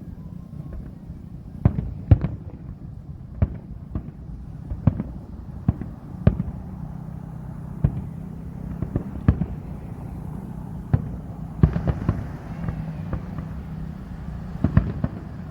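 Fireworks going off: many sharp bangs and pops at irregular intervals over a steady low rumble.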